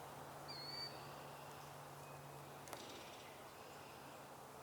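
Faint, distant killdeer call: one short high-pitched call about half a second in, rising then leveling off, over quiet woodland background. A single faint click comes near the three-second mark.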